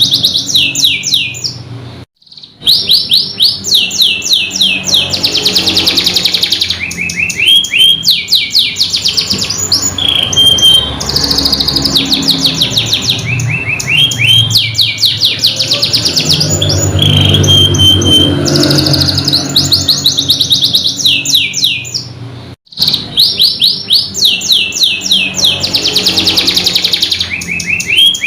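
Domestic canary singing a loud, unbroken song of rapid trills, each trill a fast run of repeated downward-sweeping notes, now and then a short clear whistle. The song cuts out briefly twice, about two seconds in and again near twenty-three seconds.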